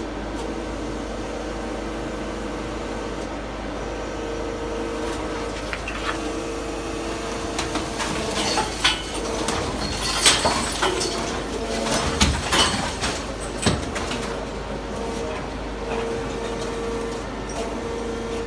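Brokk demolition machine's electric-hydraulic power pack running with a steady hum. From about six seconds in come irregular knocks and clatters, most of them between about ten and thirteen seconds.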